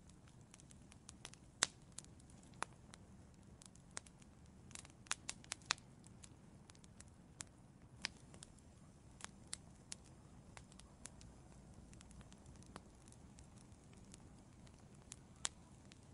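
Burning firewood in an outdoor fireplace, crackling with irregular sharp pops over a low steady hiss of the flames, a cluster of pops about five seconds in.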